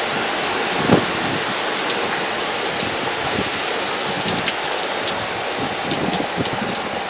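Steady hurricane rain falling and pattering on surfaces, with many small drip ticks and a single knock about a second in.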